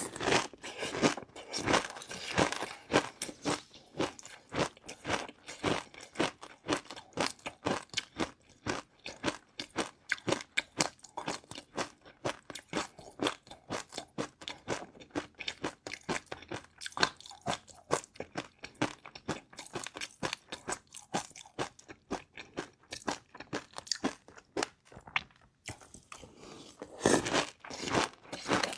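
Close-up chewing of crunchy food: a continuous run of rapid, crisp crunches, louder for a moment about two seconds in and again near the end.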